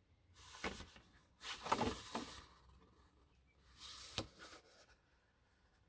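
Printed cards and paper being handled and turned over, rustling and sliding in three short bouts with a couple of light taps.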